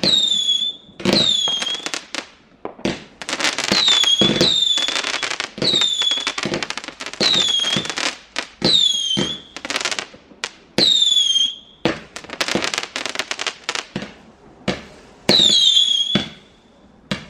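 Fireworks going off in quick succession, with sharp bangs and crackling. Short falling whistles from whistling fireworks come every second or two.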